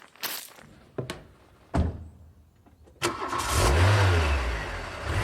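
A few knocks, like a vehicle door shutting, then about three seconds in an engine cranks and starts, revs up briefly and settles back.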